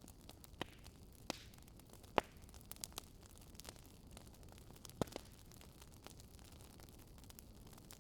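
Wood fire in a fireplace crackling: scattered sharp pops and snaps over a low steady hiss. The loudest pop comes about two seconds in, and another strong one about five seconds in.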